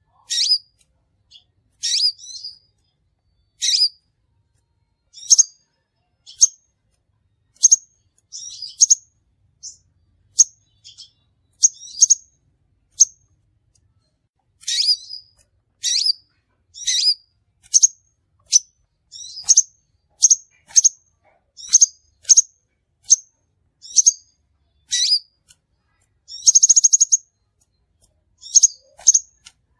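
Crimson sunbird giving short, sharp, high chirps, roughly one a second with brief pauses, and one longer buzzy trill near the end.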